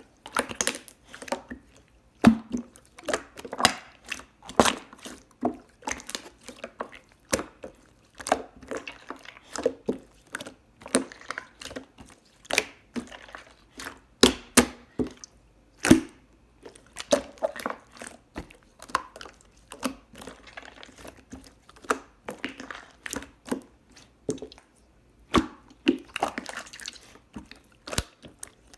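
Close-miked chewing and wet, squishy mouth sounds of soft food being eaten, with many sharp clicks and smacks in an irregular run.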